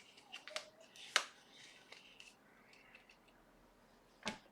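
Handling noises: light rustling and a few sharp clicks, the loudest about a second in and another near the end.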